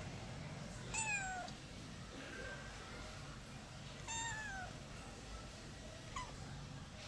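Domestic cat meowing: two clear meows, each falling in pitch, about three seconds apart, then a short, fainter call near the end.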